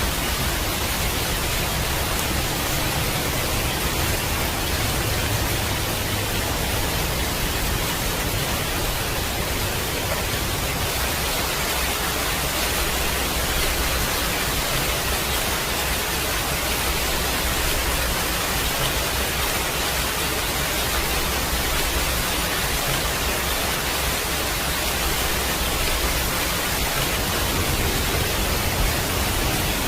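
Steady rain, an even hiss with no breaks, over a low rumble that swells and eases slowly.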